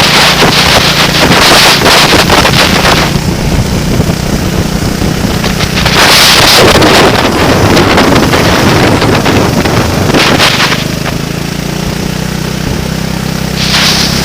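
Vehicle engine running at a steady pitch, overlaid by heavy wind buffeting on the microphone that comes in gusts, strongest in the first three seconds and again about six seconds in.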